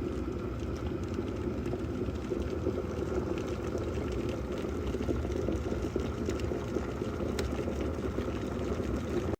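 Water at a rolling boil in a glass electric kettle: a steady rumbling bubble noise with small pops, which cuts off suddenly near the end.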